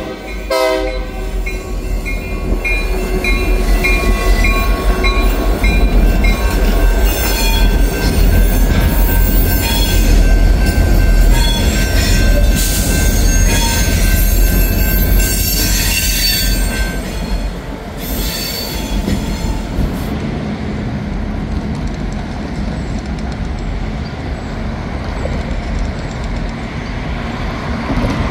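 A pair of GP50 diesel locomotives rumbling past through a street crossing with freight cars in tow, their horn cutting off within the first second. A mechanical crossing bell dings about three times a second for a couple of seconds, and the wheels squeal on the rails. After about 20 seconds the sound drops to a quieter, steady rumble.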